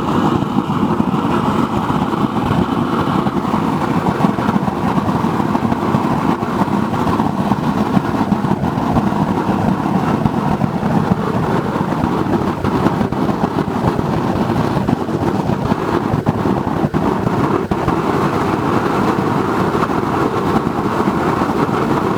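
Waste oil burner built from an old car muffler, burning with blower air: a loud, steady rush of flame with a flickering low rumble. It is running on the oil already inside the muffler, with the oil feed off.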